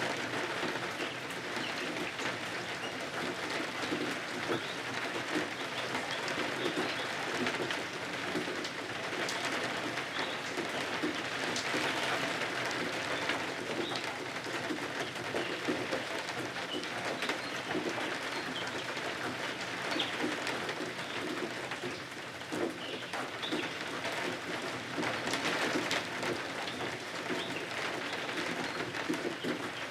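Steady rain: a dense, even patter with many small drop ticks.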